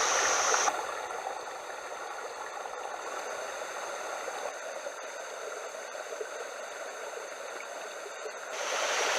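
Small mountain headwater stream running and splashing over rocks, a steady rush that turns quieter about a second in and louder again near the end.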